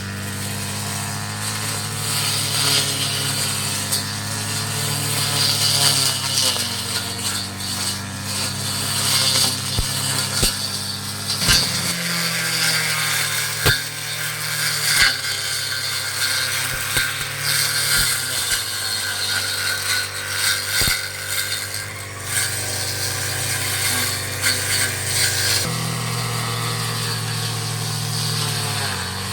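Petrol brush cutter engine running while cutting weeds, its pitch dropping about twelve seconds in and rising again near the end as the load changes, with a few sharp clicks.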